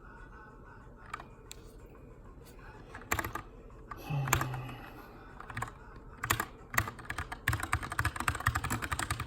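Keychron K2 aluminum mechanical keyboard with brown switches being typed on: a few scattered keystrokes, short bursts about three and six seconds in, then a fast, dense run of typing near the end. A brief louder sound with a low hum about four seconds in.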